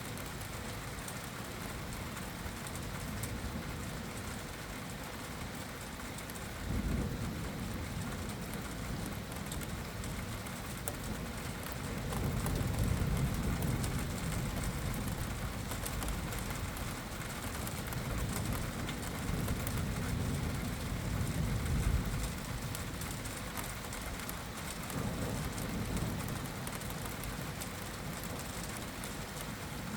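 Steady rain falling in a thunderstorm, an even hiss throughout. Low rumbles swell up several times: about 7 seconds in, for a few seconds from about 12 seconds in, again from about 19 seconds in, and about 25 seconds in.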